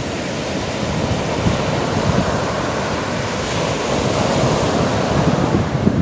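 Sea surf washing steadily on the shore, with wind buffeting the microphone in a low rumble.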